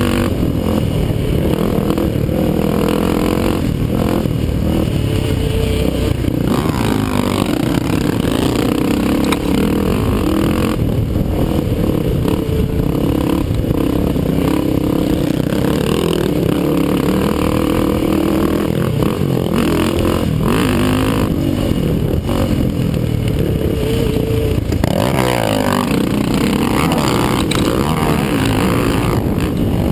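ATV (quad) engine racing, its pitch rising and falling over and over as it revs up, shifts and backs off, over a heavy rumble.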